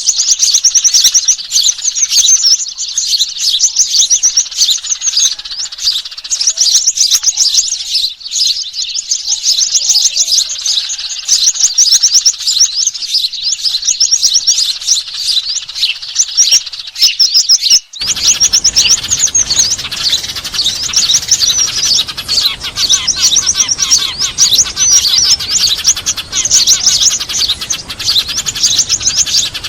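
Bird-lure recording of small birds chattering noisily: dense, rapid high-pitched chirping with no pause. About two-thirds of the way through it cuts abruptly to another take with a steady hiss underneath and lower chirps joining in.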